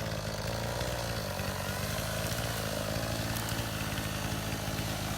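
Chainsaw engine running at a steady speed, without revving up or down.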